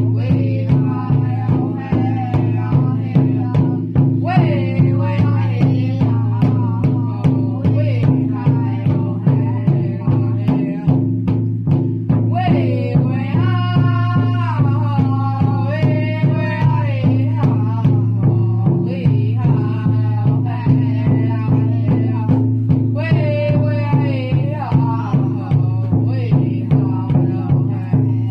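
Indigenous drum song: a fast, even drumbeat under singing, the voices rising to high held phrases in the middle and again near the end.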